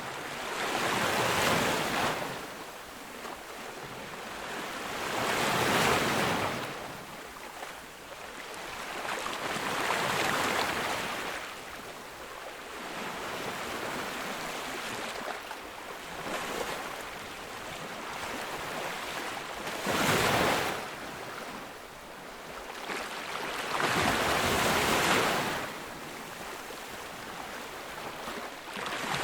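Ocean waves breaking on a beach, one surge of surf about every four to five seconds, each rising and washing away in between.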